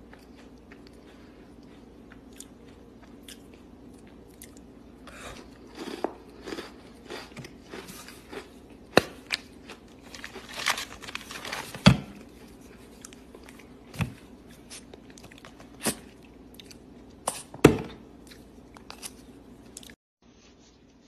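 Close-miked biting and chewing of a chocolate sandwich cookie: scattered crisp crunches and small mouth clicks, with a few much louder sharp crunches standing out. The sound cuts off suddenly just before the end.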